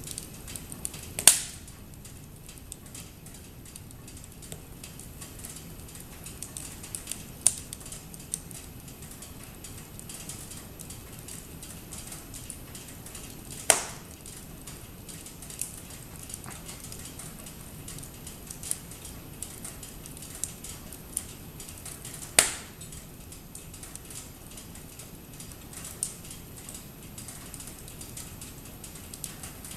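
Wood fire crackling: a steady soft hiss with frequent small crackles and a few loud, sharp pops, the biggest about a second in, near the middle, and about three quarters of the way through.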